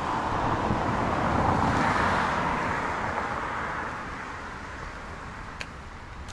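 A car passing on the road, its tyre and road noise swelling to its loudest about two seconds in and then fading away.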